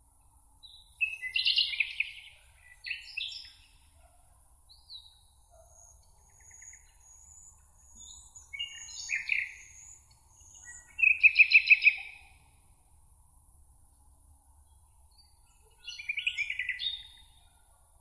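Songbirds singing in short phrases with pauses between them: five bursts, the loudest a rapid run of repeated notes about two-thirds of the way in, with a few thin high notes in between. A faint steady high hiss lies underneath.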